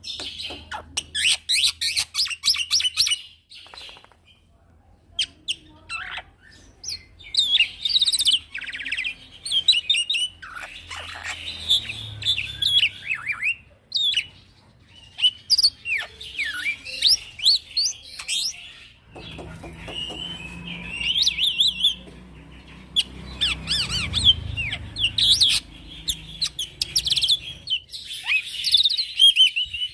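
Young male black-winged myna (jalak putih) singing in full song: a long run of rapid chirps, whistled glides and rattling trills broken by short pauses. A low rumble sits beneath the song for several seconds past the middle.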